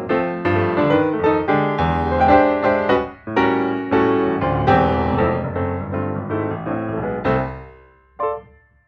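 Background piano music: a busy run of struck notes and chords that dies away near the end, then one short chord.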